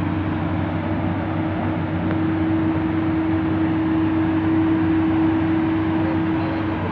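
Heavy diesel machinery running steadily, with a steady whine that strengthens through the middle and cuts off just before the end.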